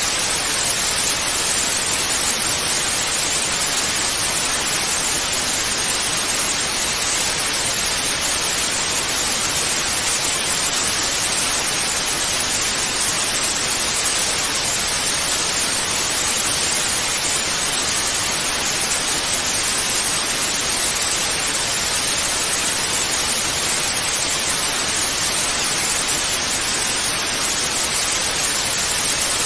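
Analogue television static: a steady, even hiss of white noise, brighter in the upper frequencies, with no change.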